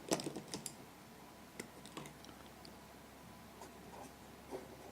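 Pen writing: a quick run of small scratches and taps in the first second, then a few faint ticks.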